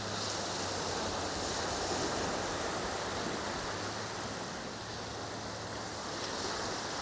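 Small waves washing in over a shallow sandy beach, swelling twice.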